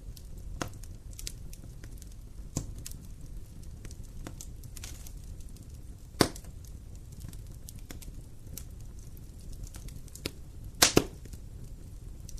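Wood campfire crackling, with scattered sharp pops over a low steady rumble; the loudest is a single pop about six seconds in and a quick double pop near eleven seconds.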